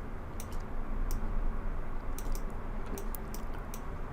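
Computer keyboard keys and mouse buttons clicking at an irregular pace, a dozen or so sharp clicks, over a steady low hum.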